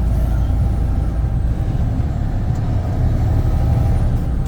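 Semi truck driving: a steady, low engine and road rumble with no change through the stretch.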